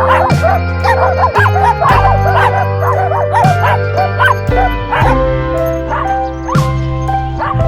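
Background music with held bass notes and a regular beat, over a miniature dachshund's short, high whimpers and yips that come thickest in the first half.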